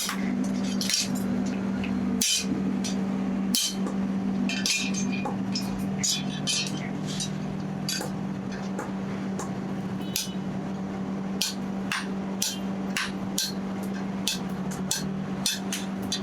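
Hammer blows on the steel of a truck leaf spring, irregular strikes one to three a second, some with a short metallic ring, over a steady low hum.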